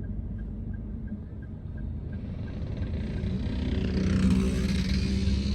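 Car on the road: a steady low engine and road rumble that swells louder about halfway through, with faint regular ticking.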